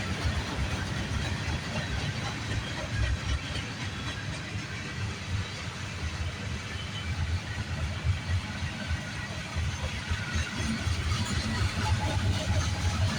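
Freight train rolling past, a steady low rumble of wheels on rails.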